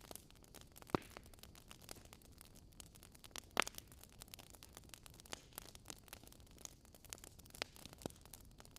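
Wood fire crackling in a fireplace: a constant scatter of small snaps over a soft hiss, with a few louder pops, about a second in, near the middle, and near the end.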